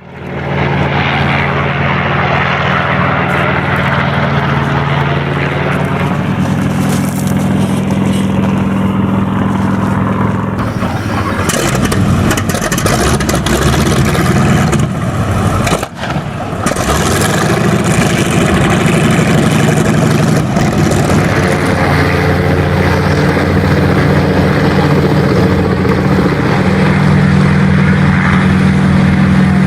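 Sikorsky S-58 helicopter running, a steady low engine drone under a fast rotor beat, with a brief drop in level about halfway through.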